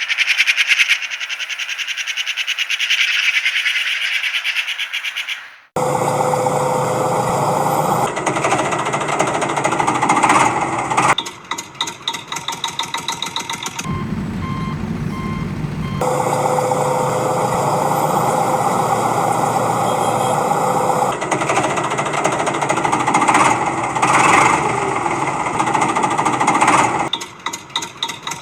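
Heavy-machinery engine noise, pulsing rapidly, in several abruptly cut segments: a rapid rattle for the first few seconds, then steady running engine noise. A short run of evenly spaced beeps comes about halfway through.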